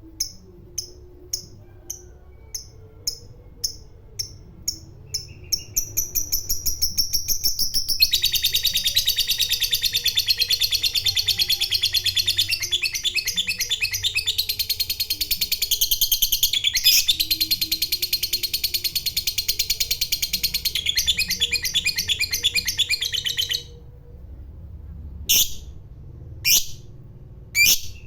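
Lovebird giving its long 'ngekek' call: spaced sharp chirps, about two a second, speed up into a continuous rapid chattering trill lasting about fifteen seconds. The trill stops abruptly, and a few single loud chirps follow near the end.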